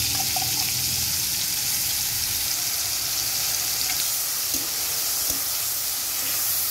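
Garlic and green chilli paste frying in hot mustard oil with chopped tomato in a kadai, sizzling steadily. The spatula starts stirring the paste near the end, with a few faint knocks.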